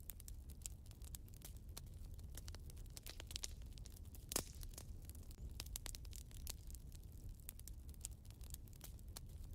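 Wood fire crackling in a fireplace: irregular pops and snaps over a low steady rumble of the flames, with one louder pop about four and a half seconds in.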